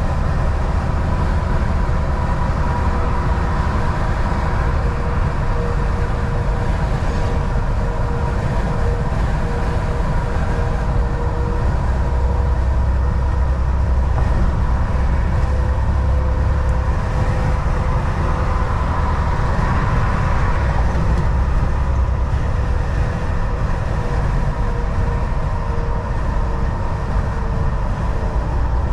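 Volvo VNL 760 semi truck driving at a steady highway speed: a constant low engine drone and road noise from the tyres, with a steady whining tone over it.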